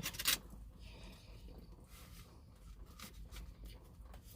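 Faint eating sounds from someone eating a breakfast sandwich: a few soft mouth clicks, plus a brief rustle about a second in.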